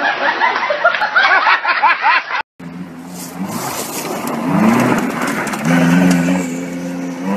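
Excited voices for the first two seconds or so, then a Ferrari F40's engine running, rising in pitch about five seconds in and holding steady near the end.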